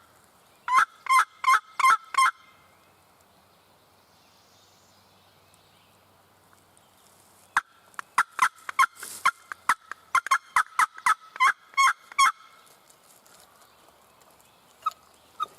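Turkey yelping in loud, evenly spaced runs: a short run of about six yelps near the start, then a longer run of about twenty from about eight seconds in, with a pause between them.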